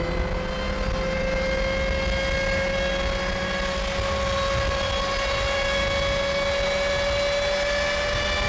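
Car engine and road noise at motorway cruising speed: a steady drone whose pitch creeps slowly upward as the car gathers speed.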